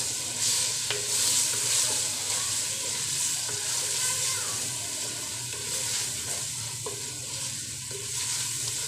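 Chopped tomatoes, onions and spices frying in oil in a clay pot, sizzling steadily while a wooden spoon stirs and scrapes through them, with a few short knocks of the spoon against the pot.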